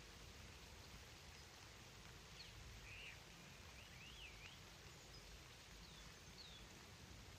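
Faint outdoor background hiss with a few quiet bird calls: a short run of warbling chirps a couple of seconds in and two or three brief whistles later on.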